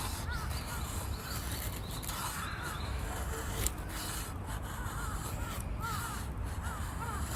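Crows cawing, short calls often in pairs, repeating every second or two over a steady low outdoor rumble.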